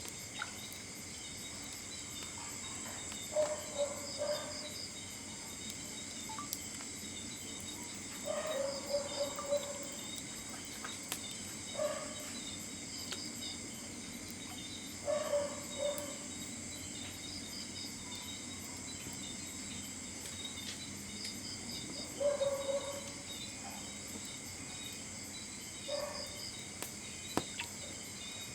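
A steady chorus of crickets and other insects buzzing, with a short, lower animal call breaking in about every three to four seconds.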